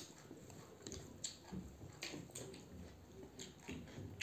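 Close-up eating sounds: irregular soft crunches, clicks and wet smacks of chewing food.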